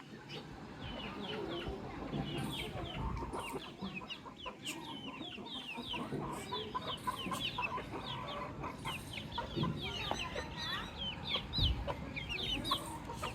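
Baby chicks peeping: a dense, continuous chorus of many short, high chirps, each sliding downward in pitch. A brief low bump comes near the end.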